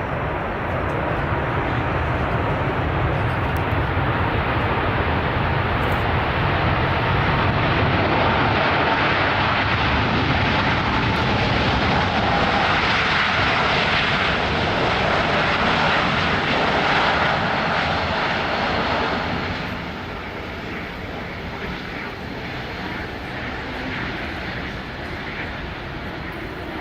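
Jet engine roar of an Airbus A380 flying past, building to its loudest around the middle. About two-thirds of the way in it drops off sharply and carries on as a lower, fading rumble.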